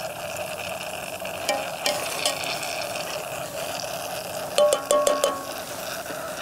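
Chicken breast sizzling steadily on a portable grill, with a few short metallic clinks of a utensil against a pot, in two clusters about one and a half seconds in and near five seconds in.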